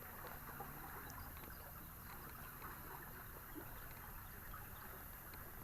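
Faint water trickling and lapping against a kayak hull, with a few small ticks.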